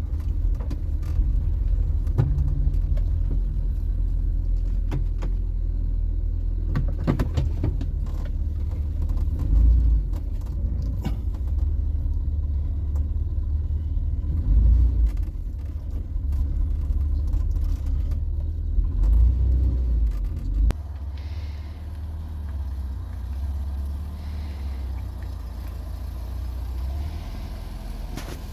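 1975 Vauxhall Viva HC being driven: steady low rumble of engine and road. About two-thirds of the way in the rumble drops suddenly to a quieter, steady engine sound.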